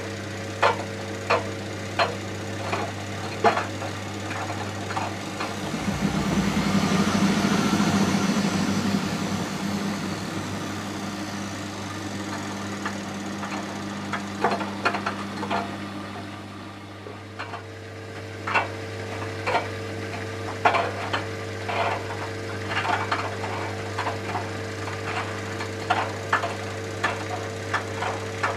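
Miele Softtronic W 435 front-loading washing machine running mid-cycle with a pillow in the drum: a steady motor hum, with a swell of rushing noise about six to ten seconds in. Irregular sharp knocks come throughout, thinning out in the middle and picking up again later.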